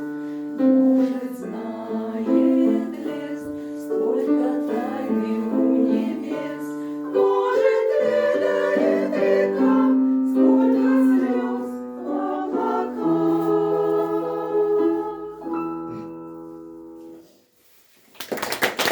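Choir singing a song in harmony, the last chord fading away near the end; a sudden burst of noise starts just before it stops.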